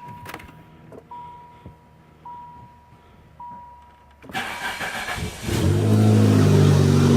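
Chrysler LeBaron's turbo four-cylinder cold-started: a steady warning chime tone repeats about once a second, then the starter cranks and the engine catches about a second later, settling into a steady idle through a new down pipe and Cherry Bomb muffler, which sounds much quieter.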